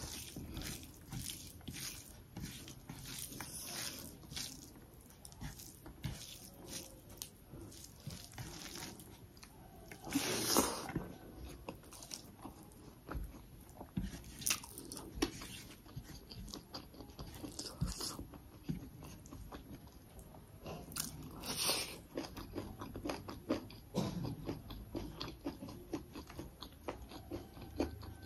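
Close-miked eating: a person chewing mouthfuls of rice and chicken curry eaten by hand, with many small irregular mouth clicks and a few louder bursts along the way.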